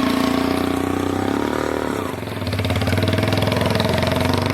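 Mahindra XP Plus tractor's diesel engine running with an even firing rhythm. About two seconds in it dips briefly and changes pitch, then picks up again.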